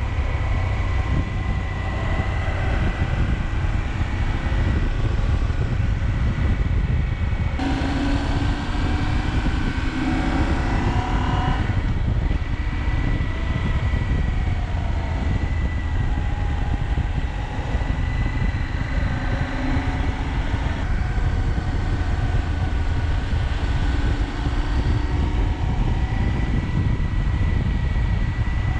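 KTM 790 Adventure's parallel-twin engine running under way, with a heavy wind rumble on the onboard microphone. From about eight seconds in, the engine note rises for a few seconds before settling back to a steady run.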